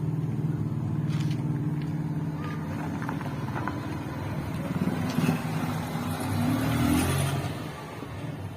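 Toyota Avanza engine running steadily, its pitch rising briefly about six to seven seconds in. A hiss joins it for a couple of seconds from about five seconds in.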